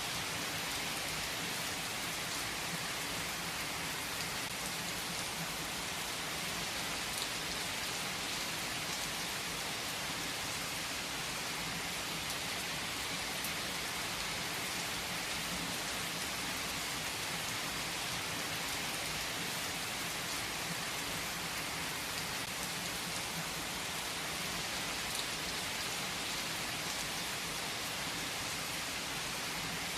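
Steady rain falling on a surface: an even, unbroken hiss with no distinct thunderclap.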